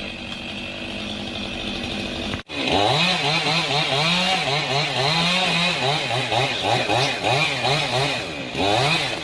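Chainsaw engine running at a steady speed, then, after a brief break about two and a half seconds in, swinging up and down in speed over and over as it saws into the wood.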